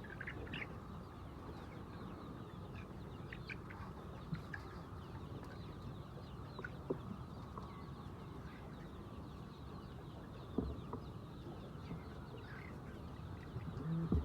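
A flock of laying hens clucking and calling, with many short calls scattered over a steady low background noise. A few faint knocks come near the end.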